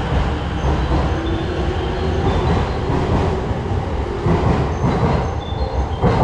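Sōbu Line commuter train running on the rails: a steady, loud rumble of wheels and car, with brief faint high-pitched wheel squeals.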